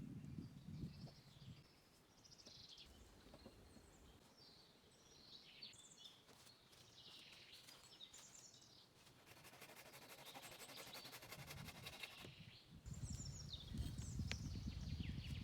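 Faint birdsong: many short chirping calls, with a dense rapid trill in the middle. Low rumbling noise comes in briefly at the start and again near the end.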